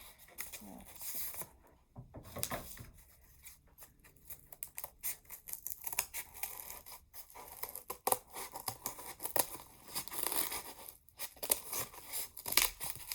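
Cardboard being cut out into a circle, with irregular crunching and scraping cutting strokes. It is hard going because two layers of cardboard are stuck together.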